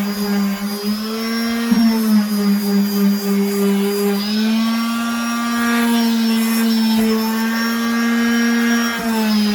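Electric sander running on wood, a steady motor hum whose pitch shifts slightly a few times as the load changes, at the fine 320-grit stage of sanding.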